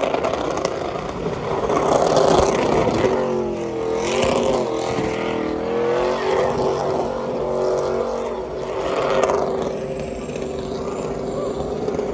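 Vehicle engine revving at a truck show, its pitch rising and falling over a few seconds in the middle, amid a loud, dense wash of noise.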